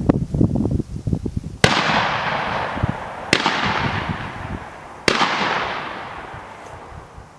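Three shotgun blasts, each followed by a long rolling echo that dies away, the shots about a second and three quarters apart.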